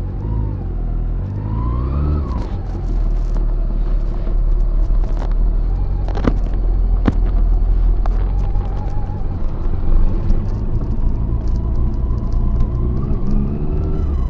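Honda CB400SF's inline-four engine running under way, its pitch rising as it accelerates near the start and again near the end, over a heavy wind rumble, with two sharp clicks midway.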